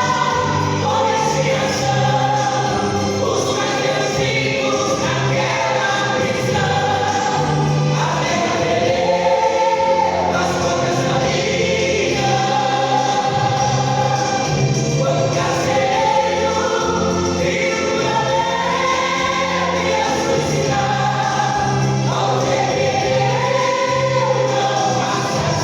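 Church choir singing a gospel hymn in Portuguese over instrumental accompaniment, with a bass line moving note by note beneath the voices.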